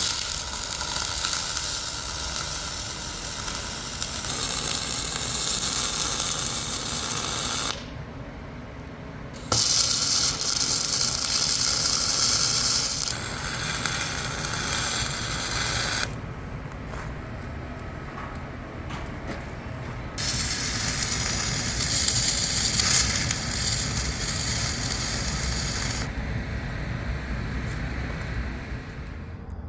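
Electric arc welding on heavy steel plate, a dense crackling arc in several runs of a few seconds each, with short breaks about 8 and 16 seconds in.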